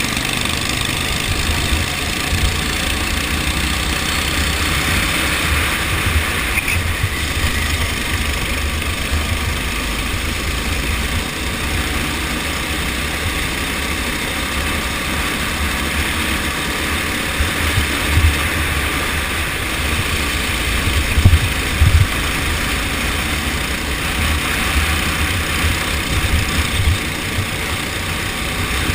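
Go-kart engine running steadily through a race, with an uneven low rumble underneath.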